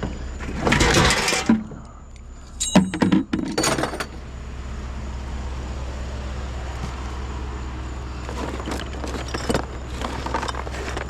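Pieces of scrap metal clattering and clinking as they are handled and dropped, with a short ringing clink about three seconds in. A steady low hum runs underneath.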